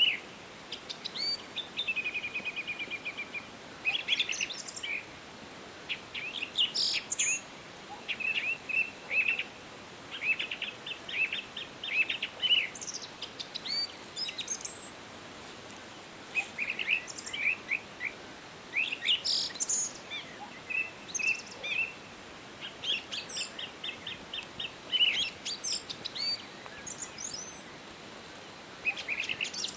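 Several songbirds singing in a forest, with repeated rapid trills and short chirps overlapping one another, over a faint steady background hiss.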